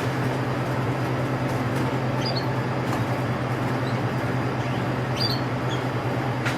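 A few short, high canary chirps, about two seconds in, near four seconds and again past five seconds, over a steady low hum.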